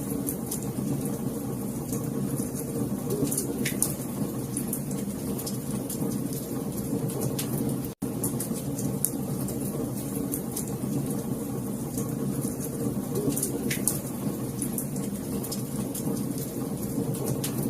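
Wood fire crackling: a steady low rumble of flames with scattered sharp pops and snaps. The sound cuts out for an instant about eight seconds in.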